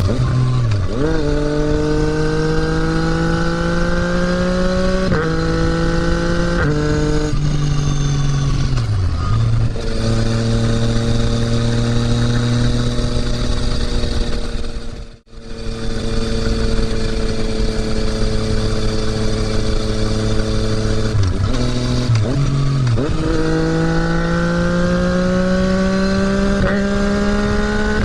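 Yamaha MT-09's three-cylinder engine through an Akrapovič exhaust while riding. Its pitch climbs under throttle with quick drops at two upshifts, eases off, then holds a steady cruise. After a short dropout about halfway, it cruises again, drops briefly and climbs once more near the end.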